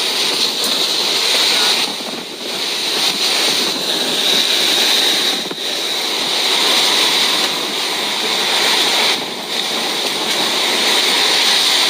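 Typhoon wind blowing hard in sustained gusts, a loud rushing noise that eases briefly a few times.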